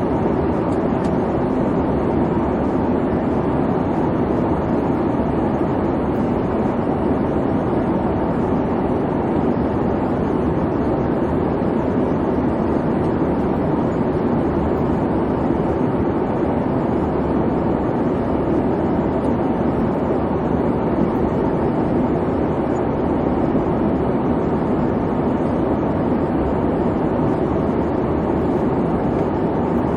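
Airliner cabin noise in flight: a steady, unchanging drone of engine and airflow with no separate events.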